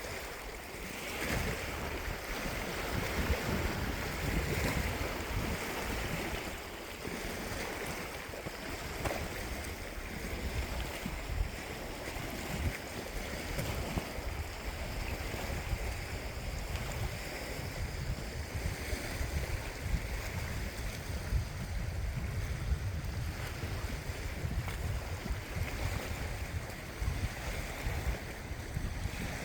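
Steady water noise of a lake with wind buffeting the microphone, a fluctuating low rumble throughout.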